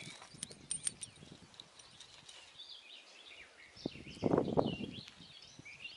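Faint bird calls, with a short burst of rustling noise about four seconds in that is the loudest thing heard.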